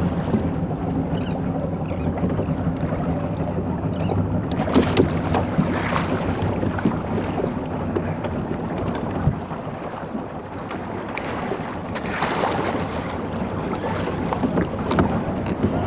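A boat's engine running steadily, with wind and water rushing past and a few brief knocks.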